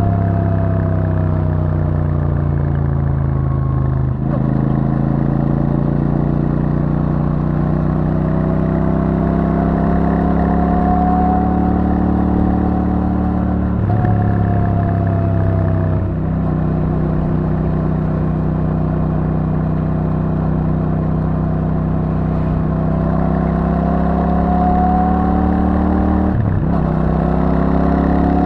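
Royal Enfield Super Meteor 650's 648 cc parallel-twin engine through its stock exhaust, revs rising and falling with the throttle on a winding road. The pitch sinks for the first few seconds, climbs, drops again and climbs near the end, with a short break in the sound about four times.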